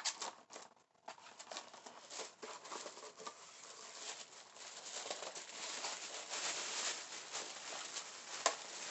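Packaging being handled and opened by hand: a run of rustling, crinkling and crackling, with one sharp click near the end.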